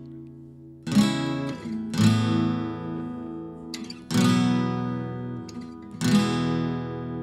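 Acoustic guitar strummed slowly, one chord about every two seconds, each left to ring out and fade.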